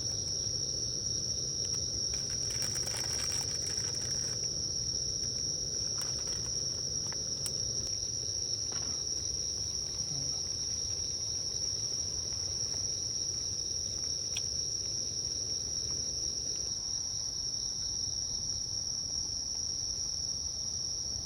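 Insects calling: one steady, unbroken high-pitched trill over a low background hum, with a few faint clicks.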